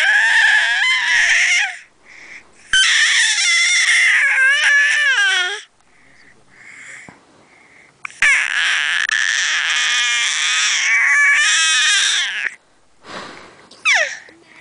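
Baby letting out long, high-pitched, operatic squeals: three drawn-out squeals that waver in pitch, the second sliding down at its end, then a short, quickly falling squeal near the end.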